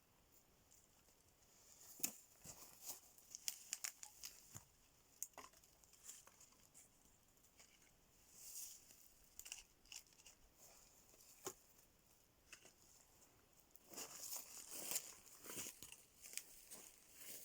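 Faint, irregular rustling and crinkling with sharp little clicks and cracks, busiest a couple of seconds in and again near the end: something dry being handled close by.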